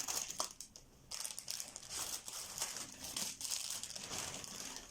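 Plastic packaging crinkling and rustling as it is handled, in irregular bursts with a short lull about a second in.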